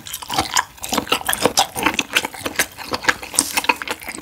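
Close-miked wet chewing of a mouthful of soy-sauce-marinated abalone: rapid smacking and squelching mouth clicks, several a second.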